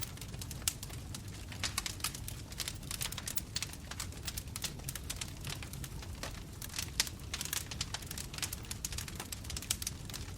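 Bonfire crackling: wood popping and snapping in quick, irregular clicks over the steady low rumble of the flames.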